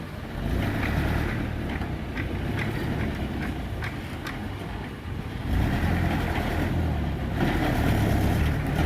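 Dump truck engine running with a low rumble that grows louder about five and a half seconds in.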